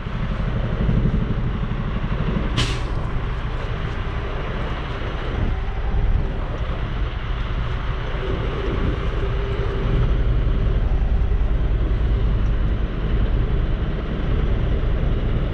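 Semi truck's diesel engine running steadily at low speed while the rig is backed toward a loading dock, a little louder from about ten seconds in. A short, sharp hiss about two and a half seconds in.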